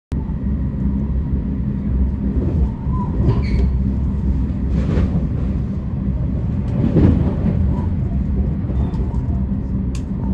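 Steady low rumble of a moving vehicle, with a few faint, brief sounds over it.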